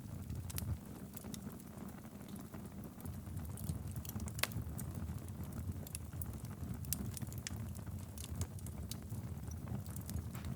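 Wood fire burning in a fireplace: a steady low rumble of flames with irregular sharp crackles and pops, one louder pop about halfway through.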